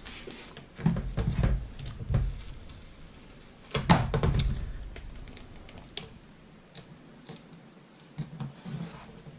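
Handling noises of double-sided tape being laid along a laptop's plastic screen lid: scattered small clicks, taps and rustles, a few low thuds, and one louder knock about four seconds in.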